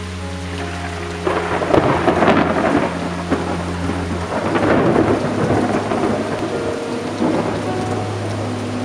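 Thunderstorm: steady rain with rolling thunder that swells about a second in and again around the middle, over a steady low hum.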